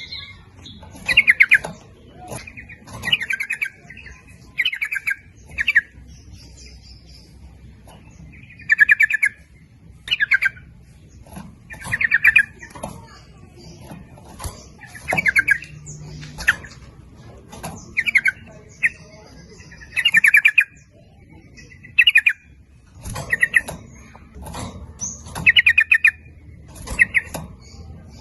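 Yellow-vented bulbul (trucukan) singing: short bubbly chattering phrases, repeated about every one to two seconds.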